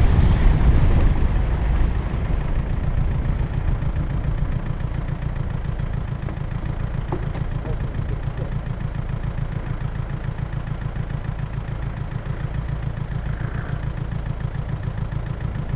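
Land Rover Discovery 1 engine easing off as the vehicle rolls to a stop, then idling steadily with a low, even rumble. Wind noise in the first couple of seconds dies away as it slows.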